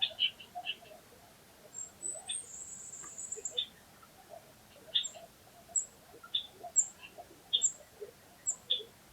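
Small birds chirping: short high calls repeating about once every three-quarters of a second, each paired with a thin, very high note, and a brief very high trill a couple of seconds in.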